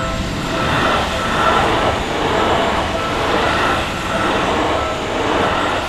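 Seibu Shinjuku Line electric train passing through a level crossing: a loud, continuous rolling rumble of wheels on rail that swells in a rhythm about once a second as the cars go by.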